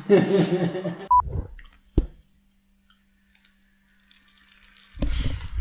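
A voice for about a second, a short high beep, then a quiet gap. Close-up chewing starts about five seconds in as a dish of spanakorezo is tasted.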